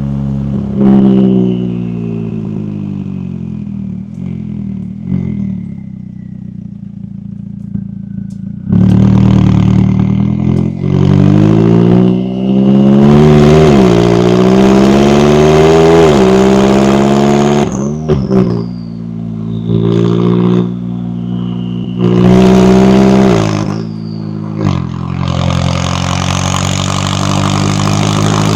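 McLaren 570S twin-turbo V8 exhaust under repeated hard acceleration. The revs climb and then drop sharply at each gearshift, with quieter stretches of lower revs between the pulls.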